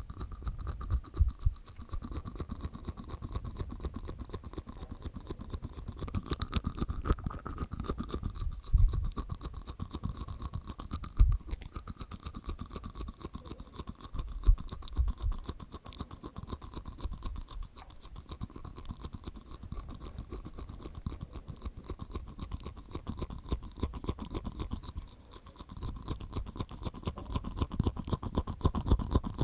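ASMR mouth sounds made inside the mouth: a continuous run of rapid, wet tongue and teeth clicks, with a few louder clicks scattered through.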